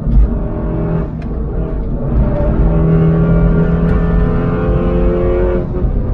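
Stage 3 Audi S3's turbocharged 2.0-litre four-cylinder engine pulling hard under acceleration, its note climbing slightly, with a short break in the engine note near the end.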